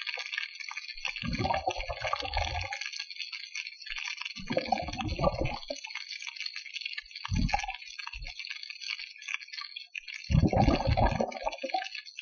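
Water sloshing and gurgling in four irregular muffled surges over a steady hiss.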